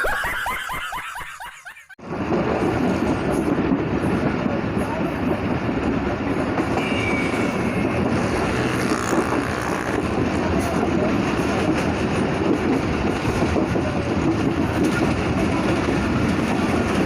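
Pakistan Railways passenger train running along the track: a steady rumble of wheels on the rails that starts abruptly about two seconds in, after a voice fades out.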